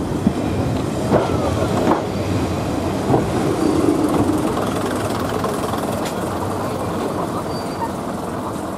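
Passenger coaches rolling slowly along a platform and drawing to a stand: a steady rumble from the wheels with a few sharp knocks over the rail joints, growing quieter as the train stops.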